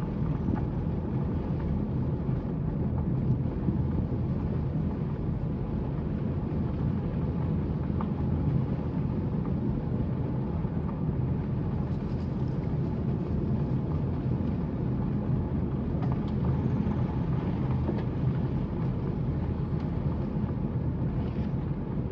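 Steady road and engine noise of a car being driven, heard from inside the cabin: an even low rumble with a faint steady hum.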